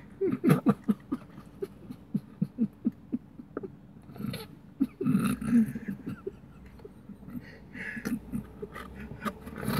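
Close-up mouth sounds of a man eating a burger: chewing and lip smacks, heard as many small clicks. Short hums and grunts are scattered through, with a longer voiced murmur about five seconds in.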